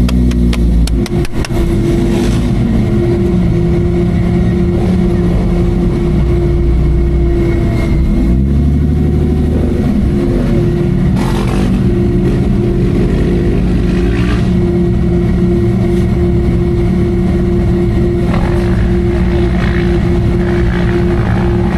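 Off-road racing 4x4's engine running hard, its pitch rising and falling as it revs and eases off, with a cluster of knocks about a second in.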